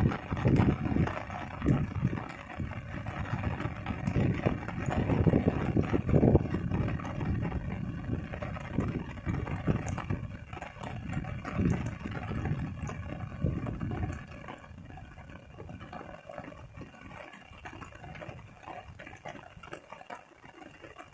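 Rain and water noise outdoors, with irregular low rumbling gusts of wind on the microphone that ease about two thirds of the way through.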